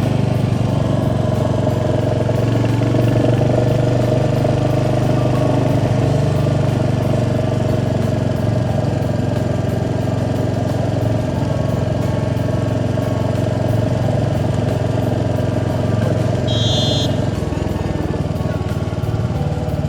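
Single-cylinder motorcycle engine, likely a Royal Enfield Hunter 350, running steadily while under way, with road and wind noise. A short high-pitched tone sounds once, about sixteen seconds in.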